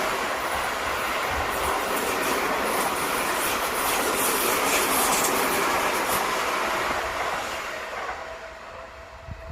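Electric commuter train passing over a level crossing, its wheels rumbling and clattering over the rails. The noise fades away near the end as the train clears the crossing, leaving a faint steady tone.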